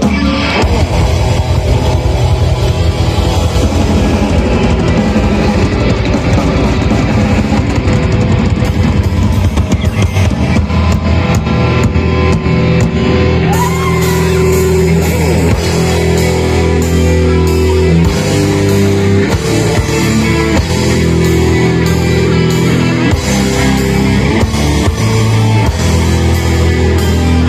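Metal band playing live: loud distorted electric guitars over fast drumming on a full drum kit.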